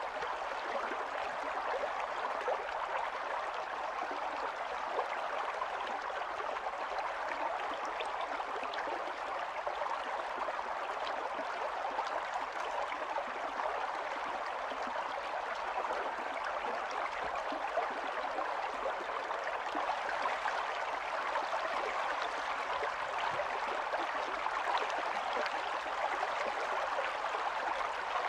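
Stream water running and babbling steadily over stones, a continuous rushing with fine gurgles and splashes.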